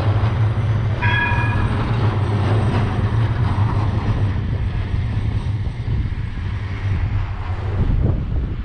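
A tram running past with a steady low rumble, and a short tone about a second in.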